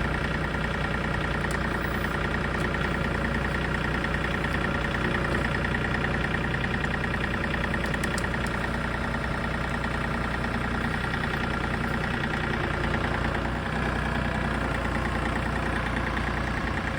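John Deere 3 series compact tractor's diesel engine running steadily.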